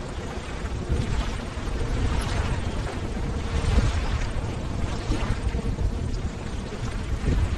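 Ocean waves breaking and washing in: a steady low rumble under a surf hiss, rising and falling gently.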